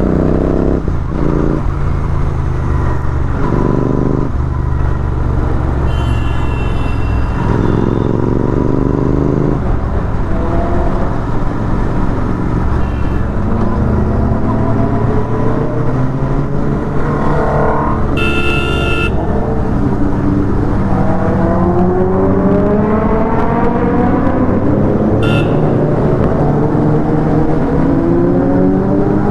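Royal Enfield Continental GT 650's parallel-twin engine under way, its pitch rising again and again as the bike accelerates through the gears. A vehicle horn sounds for about a second some two-thirds of the way through, with shorter toots earlier and near the end.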